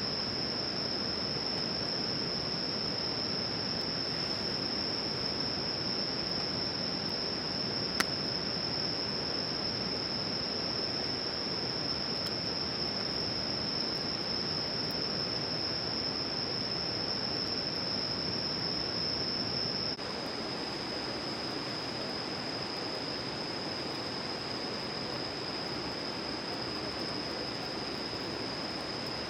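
Insects, likely crickets, trilling in a steady high-pitched chorus over an even rushing outdoor background, with one sharp crack about eight seconds in.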